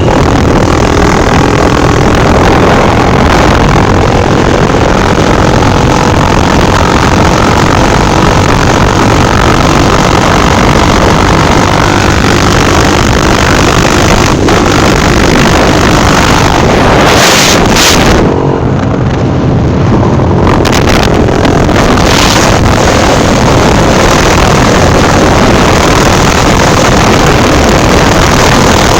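A vehicle engine running with heavy wind noise on the microphone, very loud throughout, easing briefly about two-thirds of the way through.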